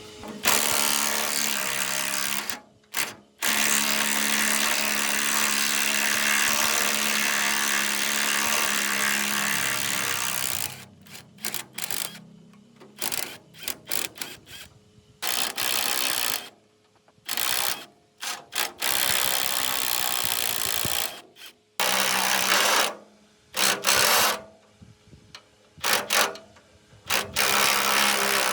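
A handheld electric power tool runs continuously for about ten seconds, pausing briefly once, then is switched on and off in short bursts.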